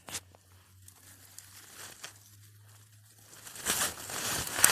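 A short click, then quiet, then about a second of crunching, crinkling rustle near the end that finishes in a sharp crack, as of hands or feet working through snow and brittle wood.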